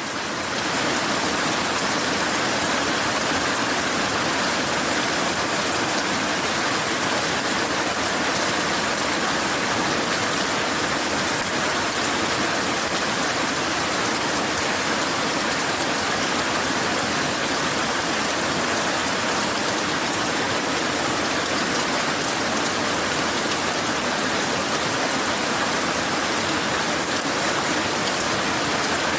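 Heavy rain falling, a steady, even rushing hiss that does not let up.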